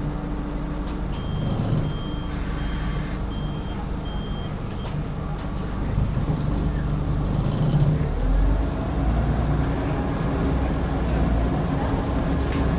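Scania N94UD double-decker bus engine running low, with a row of about five short high beeps in the first few seconds. Around halfway through the engine grows louder and climbs in pitch as the bus accelerates.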